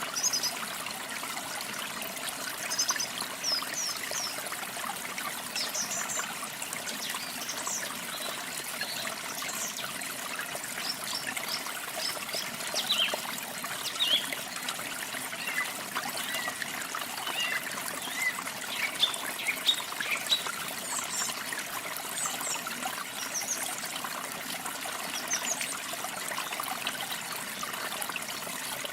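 Water trickling steadily, like a small stream, with small birds chirping in short, scattered calls throughout.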